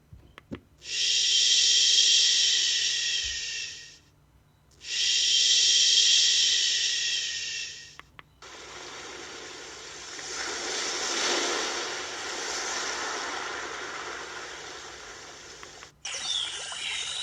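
Frida Baby portable sound machine playing its built-in soothing sounds one after another. First a hissing rush swells and fades twice. About 8 seconds in, the button press switches it to a broader, lower rushing sound that rises and falls slowly. Near the end it changes to a new track with short chirps over it.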